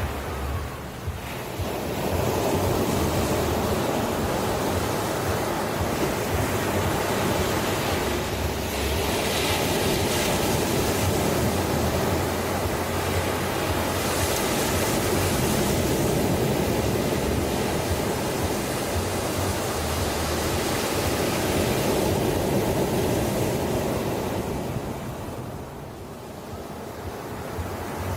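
Ocean surf washing on a shore, a continuous rushing hiss. It swells up about two seconds in, stays full for most of the stretch, then ebbs near the end before building again.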